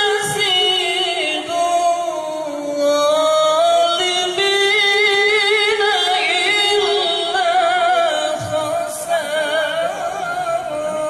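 A solo voice in melodic Quran recitation (tilawah), drawing out long, ornamented notes with a strong vibrato.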